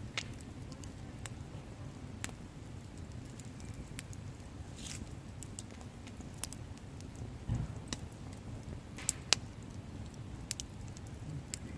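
Wood campfire burning: a low steady rumble of the flames with irregular sharp crackles and pops of the burning wood, a quick pair of louder snaps about nine seconds in.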